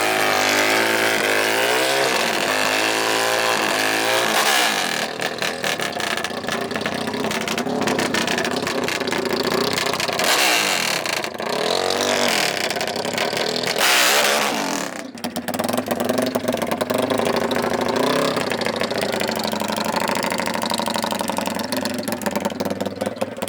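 Dirt bike and ATV engines revving, their pitch rising and falling. About halfway through, two loud surges sound like machines accelerating hard past, followed by a brief drop, and then steadier running.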